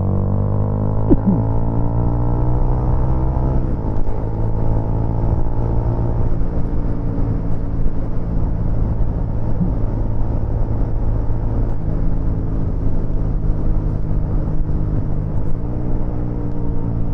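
Motorcycle engine running on the road, with wind noise on the microphone. The engine note falls steadily over the first few seconds, holds, then rises again near the end.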